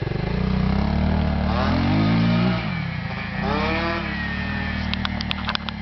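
Small motorcycle engine running and being revved, its pitch rising twice, with a few short sharp clicks near the end.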